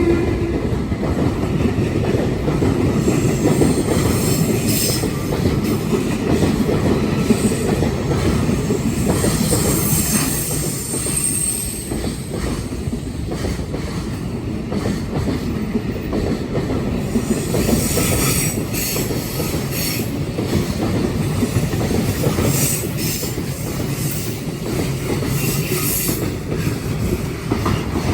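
Long train of Koki container flatcars rolling past at steady speed with a continuous rumble and wheels clattering over rail joints. Brief high wheel squeals come and go, the clearest about ten seconds in.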